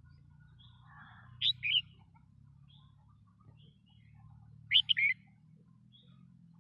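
Red-whiskered bulbul singing: two short, loud phrases of a few quick notes each, about three seconds apart, over a faint low hum.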